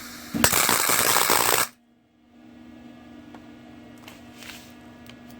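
Arc welder laying a tack weld on a steel axle truss: a loud, dense crackle from the arc starting about half a second in and cutting off abruptly a little over a second later. A steady hum runs underneath.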